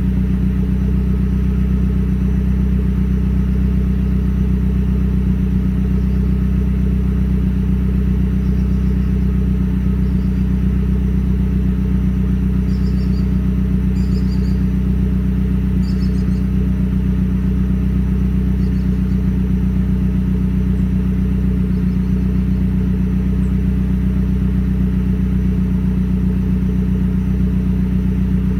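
Turbocharged four-cylinder of a Mazdaspeed idling steadily through a Magnaflow turbo-back exhaust with a catted downpipe, a deep even drone with no revving.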